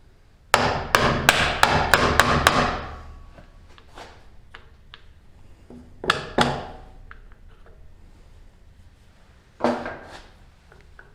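Hammer blows on a tool-cabinet caster wheel, breaking it apart to get at the ball bearings inside. A quick run of about seven strikes comes in the first couple of seconds, then two more about six seconds in, and one more near the end.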